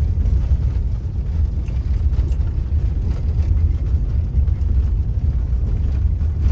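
Moving car's road noise: a steady low rumble of engine and tyres, heard from inside the vehicle.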